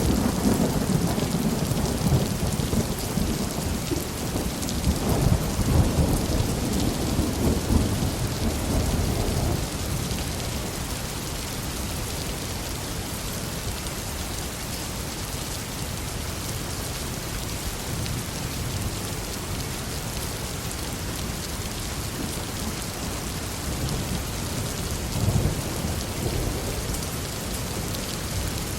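Steady heavy rain in a forest with rolling thunder: a long rumble through the first ten seconds that fades away, and a shorter, weaker rumble near the end.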